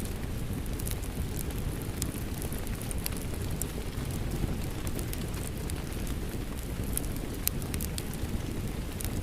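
Wood fire crackling, with irregular sharp pops and snaps, over a steady low rush of rain.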